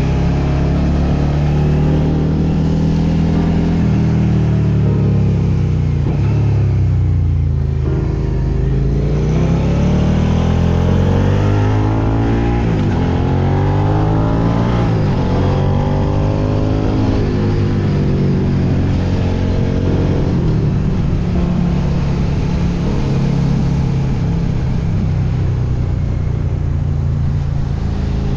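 Suzuki SV650X motorcycle's 645 cc V-twin engine running under way, its pitch sliding down and climbing again several times as the rider eases off and accelerates.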